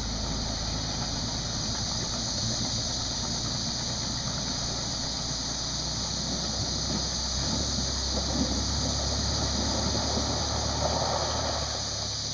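Suzuki dual-sport motorcycle engine running steadily at low revs, its pitch shifting slightly about halfway through.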